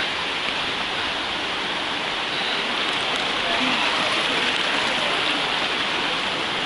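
Loud, steady rushing of a mountain waterfall, an even hiss of falling water without breaks.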